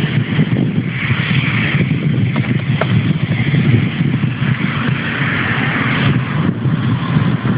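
Jet airliner engines running: a loud, steady, rough rumble with a hiss above it.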